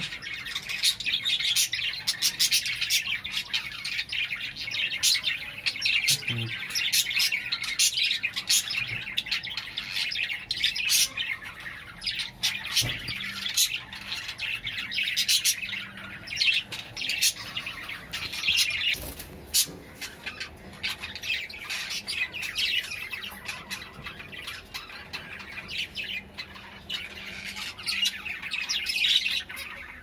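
Caged pet birds calling in quick succession with short, shrill chirps and squawks, dense at first and thinning out for several seconds in the latter part before picking up again.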